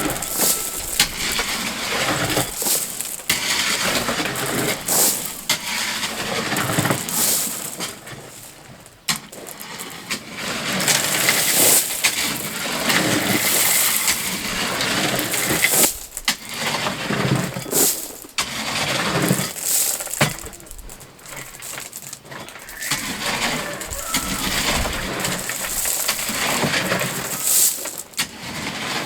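Rocks and stones clattering, knocking and scraping as they are dropped and worked into a dirt roadbed by hand, in irregular clusters of sharp hits.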